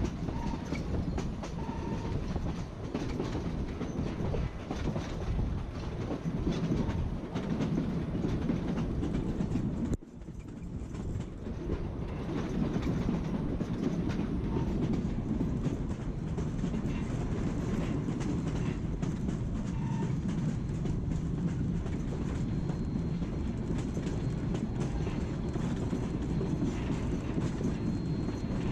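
Narrow-gauge passenger train rolling along, a steady rumble with wheels clicking over the rail joints. The sound breaks off sharply about ten seconds in and picks up again.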